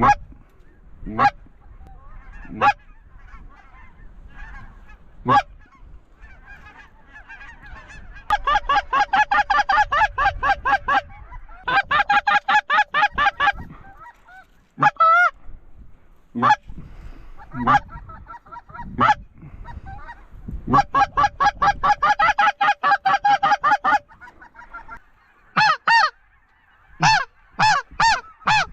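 Goose calling on a short-reed goose call: single loud honks and clucks, then three runs of rapid, evenly spaced clucks lasting two to three seconds each, with more honks near the end.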